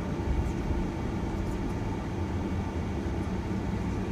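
Passenger shuttle van on the move: a steady low rumble of engine and road noise heard from inside the vehicle.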